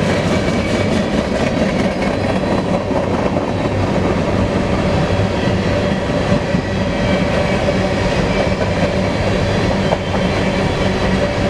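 Freight train cars rolling past: a steady rumble and rattle of steel wheels on rail, with clicking over the rail joints and a faint steady squeal.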